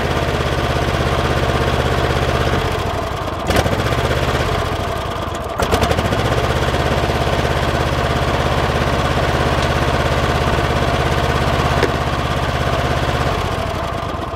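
Kohler 7000 series 24 hp twin-cylinder engine running on only one cylinder, the other getting no spark. About three seconds in, with a snap, it falters as the plug wire is pulled from the working cylinder. About two seconds later it picks right back up when the wire goes back on, runs steadily, then dies away near the end.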